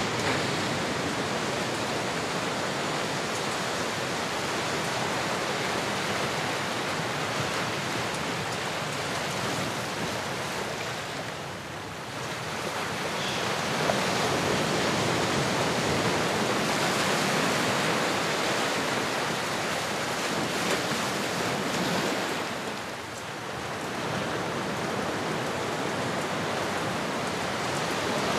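Ocean surf: a steady rush of waves that swells and eases, with lulls about twelve and twenty-three seconds in.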